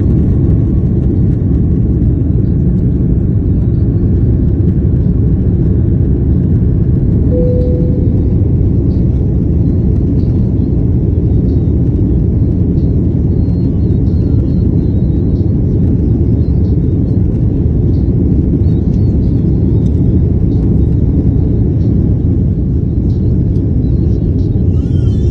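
Airbus A330-300 cabin noise during take-off: a steady, loud low rumble of the jet engines and airflow, with a brief faint tone about seven seconds in.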